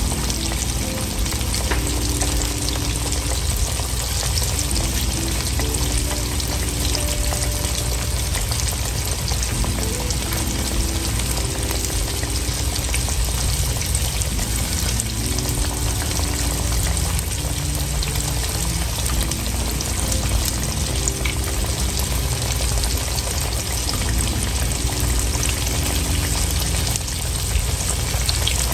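Flour-coated chicken breast frying in hot avocado oil, with a steady sizzle and crackle throughout.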